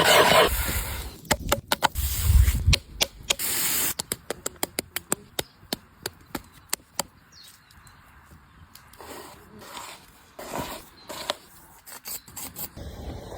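A run of sharp taps and knocks, irregular at about two or three a second, giving way after about seven seconds to quieter scraping and rustling.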